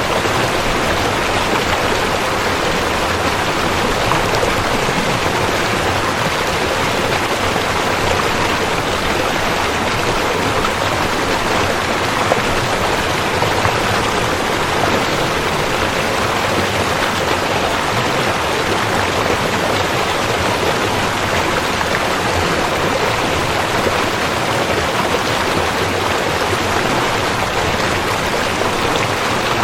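River water rushing and burbling steadily as a continuous even wash of noise.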